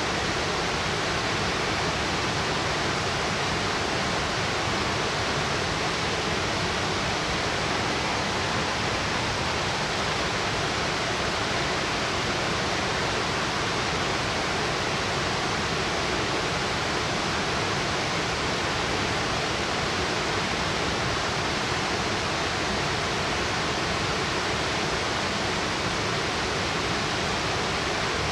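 Steady, unbroken rush of water from a 60-metre plunge waterfall falling in a single straight drop.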